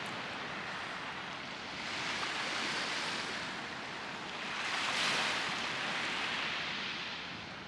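Sea surf washing on the shore, swelling about two and a half seconds in and again about five seconds in.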